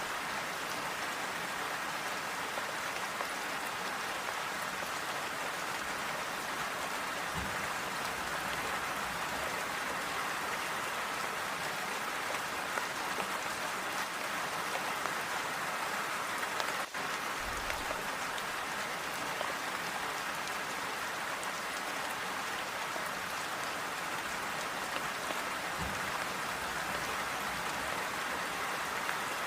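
Steady, even rain falling, a continuous hiss of drops with no thunder.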